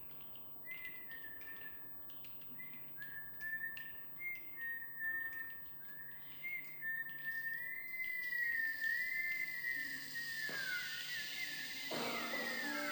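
Choir members whistling soft, gliding bird-like calls, with scattered light clicks or snaps at first. Later several whistles overlap as a steady hiss swells up beneath them.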